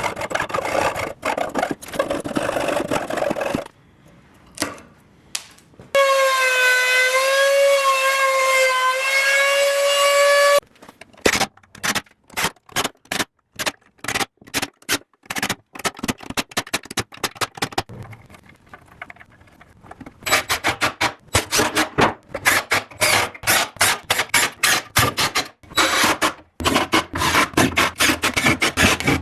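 Workshop tool sounds in short, choppy bits: a power tool's motor runs with a steady whine for about four seconds, then a long run of short knocks and clatters.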